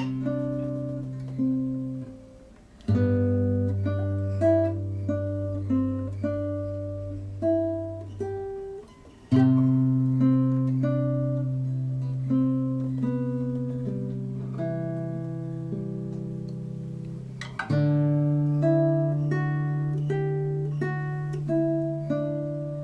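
Acoustic guitar played solo in a slow improvisation: plucked melody notes ringing over long-held bass notes. The sound dies down briefly about two seconds in and again near nine seconds before fresh notes are struck.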